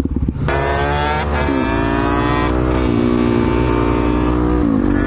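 Motorcycle engine pulling under throttle through the gears. It picks up about half a second in, and its pitch falls back at each upshift: after about a second and a half, again near three and a half seconds, and near the end.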